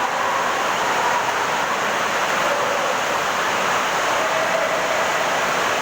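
Heavy rain falling as a steady, even hiss, with faint wavering tones beneath it.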